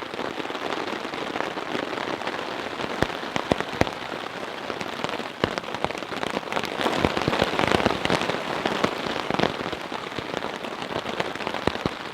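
Rain falling on a tarp shelter, a dense hiss studded with many sharp single-drop hits; it swells louder around the middle and then eases a little.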